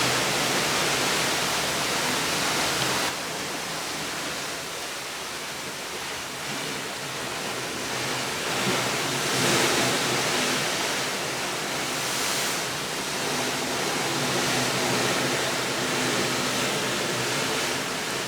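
A steady rushing noise with a faint low hum underneath, swelling slightly about nine seconds in.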